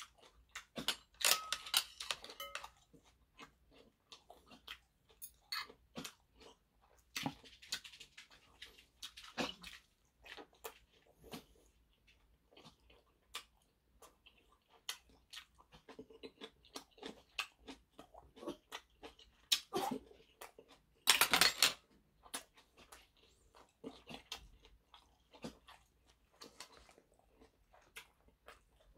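Close-up mouth sounds of a person eating: steady chewing with many small wet clicks and smacks, broken by several louder noisy bursts, the loudest about 21 seconds in.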